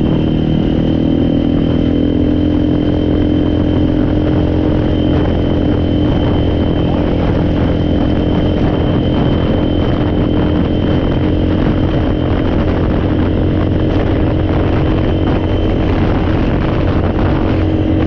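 ATV engine running steadily at a constant pace, with a thin high whine over it that fades out near the end.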